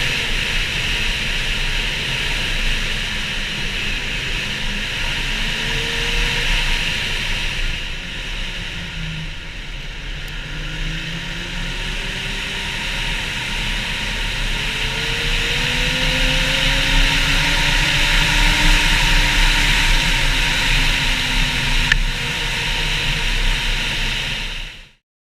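Ski-Doo MXZ Blizzard snowmobile with a 900 ACE three-cylinder four-stroke engine being ridden, its engine pitch rising and falling with the throttle over a steady rush of noise. The sound cuts off suddenly near the end.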